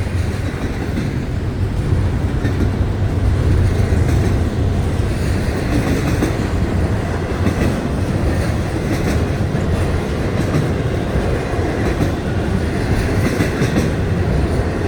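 Florida East Coast Railway freight train rolling past: a steady rumble of wheels on the rails with the clickety-clack of wheels over rail joints.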